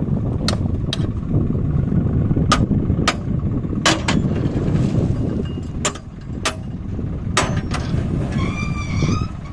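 Tractor engine running hard under load with a heavy low rumble, broken by about ten sharp knocks and clanks at irregular intervals. A brief high wavering tone sounds a little before the end.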